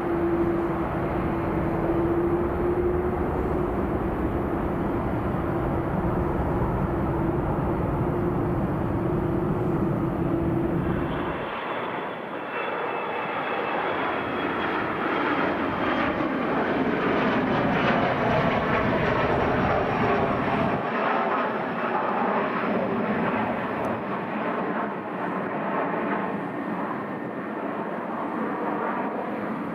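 Jet airliner engines. First an Airbus A330 climbing out, a low rumble with a steady hum. A cut about eleven seconds in brings a Loganair Embraer regional jet, its engines giving a high whine that slowly falls over a broad roar.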